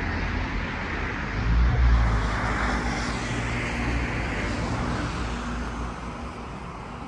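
Motor vehicle engine hum and road noise that swell about two seconds in and fade toward the end.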